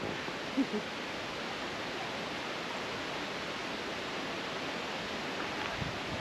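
Steady, even rush of a small waterfall on the Sol Duc River.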